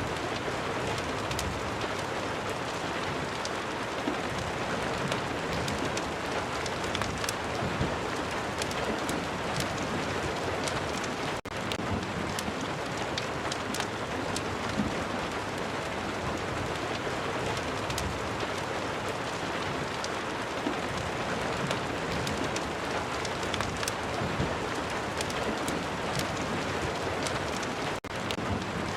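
Ambient rain-and-fireplace track: steady rain with many small crackles and pops scattered through it, like a wood fire crackling. The sound briefly drops out twice, about 11 seconds in and near the end.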